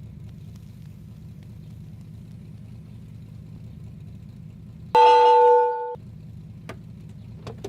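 Car engine idling with a steady low rumble. About five seconds in, a car horn gives one loud, steady one-second honk, and a couple of faint clicks follow near the end.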